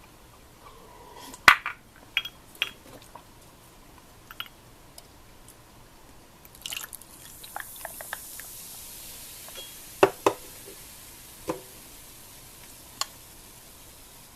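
Sharp clicks and knocks of dishes or utensils being handled, the loudest about a second and a half in and another pair about ten seconds in. Between them a soft hiss swells up for a few seconds and fades.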